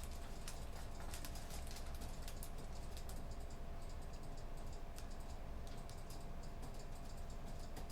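Computer keyboard typing: irregular runs of soft key clicks, over a steady low room hum with a faint steady tone in it.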